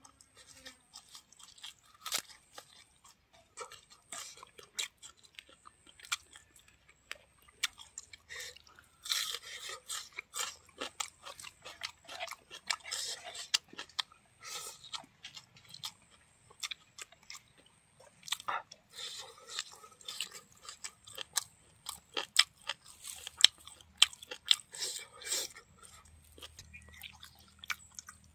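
A person chewing a meal of rice and buffalo meat eaten by hand, with irregular crunches and wet mouth clicks.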